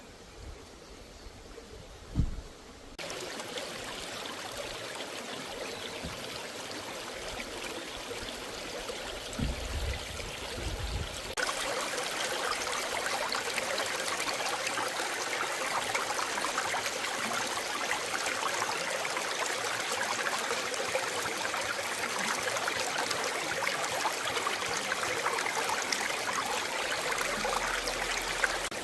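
Valley stream water running in a steady rush that jumps louder about three seconds in and again near twelve seconds. A brief low thump about two seconds in.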